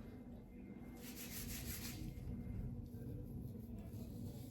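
Faint rubbing of hands massaging a chemical peel into facial skin, swelling about a second in, over a low steady hum.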